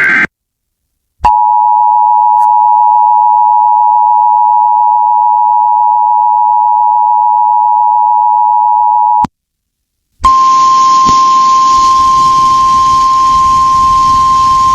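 Emergency Alert System tones. The tail of a SAME data burst is followed by the EAS attention signal, a steady two-tone chord held for about eight seconds. After a second of silence comes a single steady alert tone over radio hiss, lasting about four and a half seconds, of the kind NOAA Weather Radio sends before a warning.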